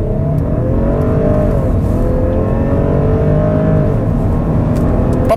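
Porsche Cayenne's turbocharged V6 at full throttle in a launch-control standing start. The revs climb, fall at an upshift about 1.7 seconds in, climb again and fall at a second upshift about 4 seconds in, then keep rising.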